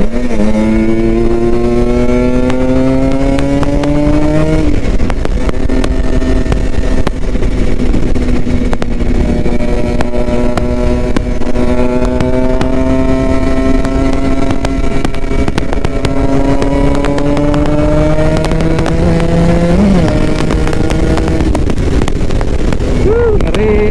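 Kawasaki Ninja RR 150's two-stroke single-cylinder engine riding in traffic. Its revs rise for the first four seconds or so, drop and hold lower, then climb slowly again, with a short blip of throttle near the end.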